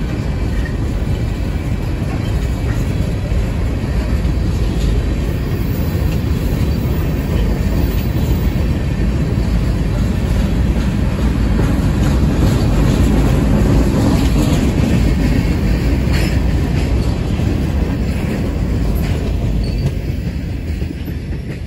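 Union Pacific freight train's covered hopper cars rolling past: a steady rumble of steel wheels on the rails with a few faint clicks. It fades near the end as the last car goes by.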